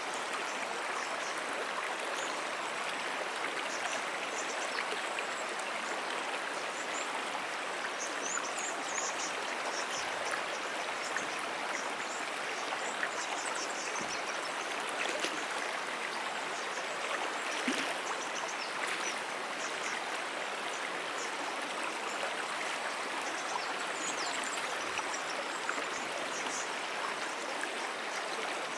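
A brook's water running steadily, an even, unbroken rush. Faint short high chirps come and go over it.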